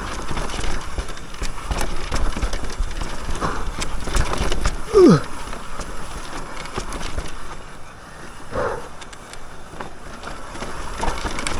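Mountain bike descending a rough dirt trail: tyres rumbling on dirt, wind buffeting the microphone, and the chain and frame rattling and knocking over bumps. About five seconds in, a rider gives a short exclamation falling in pitch.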